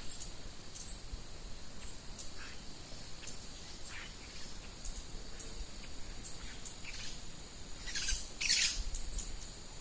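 Wild birds calling in short, high chirps, with the loudest calls coming near the end, over a steady high-pitched drone.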